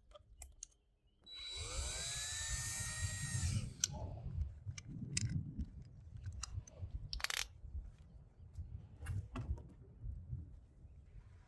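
Electric drill spinning a small abrasive flap wheel: the motor whine starts about a second in, rises in pitch and falls away a couple of seconds later, followed by uneven scuffing with scattered clicks as the flap wheel sands the aluminum wheel's recesses around the lug nut holes.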